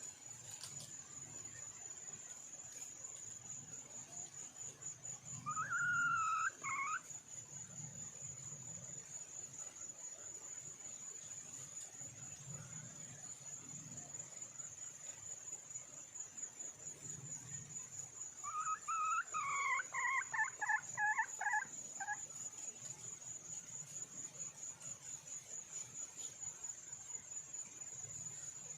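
Red junglefowl hen calling twice: a short call about six seconds in, then a longer run of quick clucking notes around twenty seconds in. An insect's steady high trill runs underneath.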